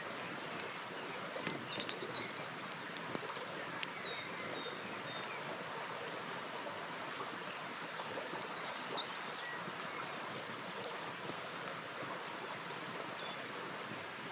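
A river flowing steadily, with a few sharp crackles and pops from a campfire, most of them in the first few seconds, and birds chirping now and then.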